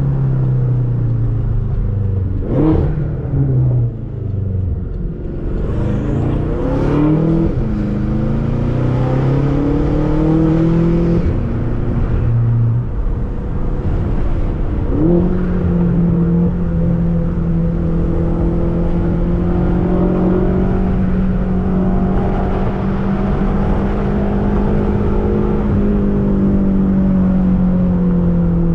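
Straight-piped BMW F10 M5 twin-turbo V8 exhaust (catless downpipes, resonator and muffler deleted) on the road. In the first half the engine note climbs and falls several times through gear changes. About halfway in it settles into a long steady drone that rises slowly, then drops off near the end as the throttle eases.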